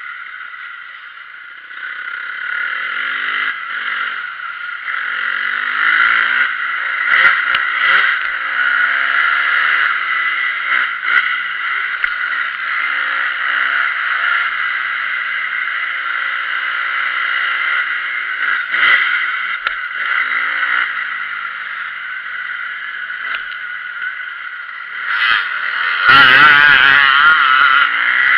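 Motocross motorcycle engines revving and easing off repeatedly as the bikes ride the track, with the loudest, rising and falling run of revs near the end.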